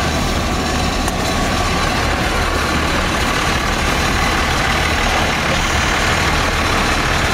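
Off-road race truck's engine running steadily, heard from inside the cab.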